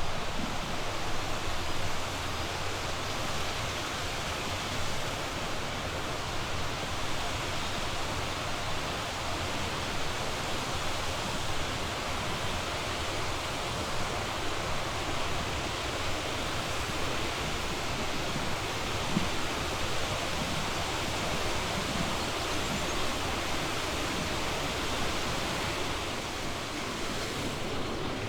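Steady rush of a flowing mountain stream, an even unbroken noise that eases slightly near the end.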